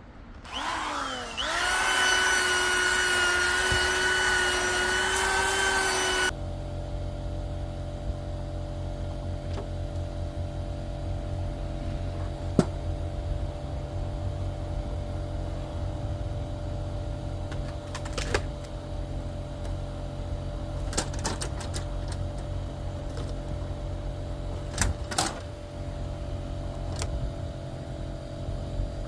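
Dremel 4300 rotary tool spinning up with a rising whine and running at a steady high pitch for about five seconds. It then switches abruptly to a lower, steady motor hum with a few sharp ticks, running on to the end.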